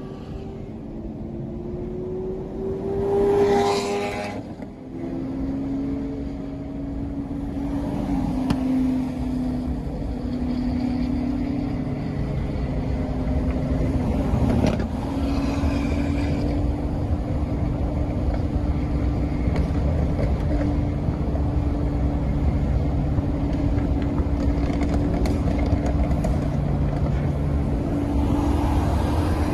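Supercar engines cruising on an expressway, heard from a car driving alongside them: a loud swell of engine sound about three to four seconds in, then a steady engine drone with road noise.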